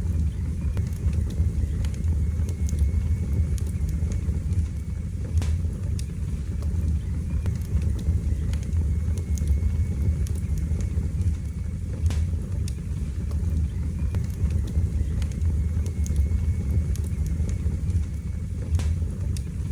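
Fire burning in a fireplace: a steady low roar of the flames with scattered sharp crackles and pops every few seconds.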